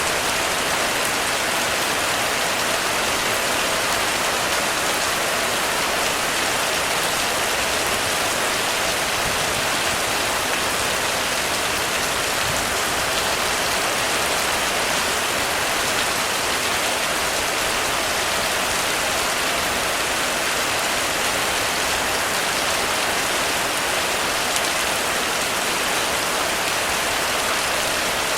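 Heavy rain falling steadily on a roof, a dense even hiss of drops with no let-up.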